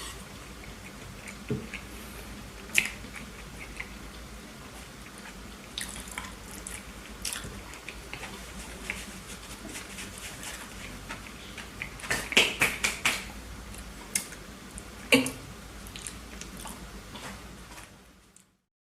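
Close-up mouth sounds of someone chewing a burger: wet smacks and clicks, with a quick run of them about twelve seconds in. The sound cuts off just before the end.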